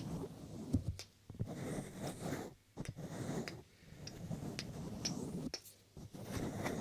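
Bare hands rubbing and stroking close on a binaural microphone: a run of soft rustling strokes, each about a second long, with a few light clicks from fingertip taps.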